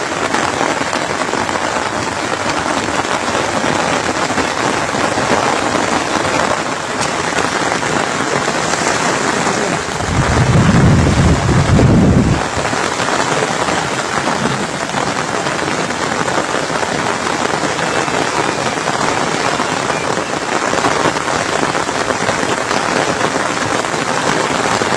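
Steady rain falling. About ten seconds in, a low rumble swells for roughly two seconds and then stops.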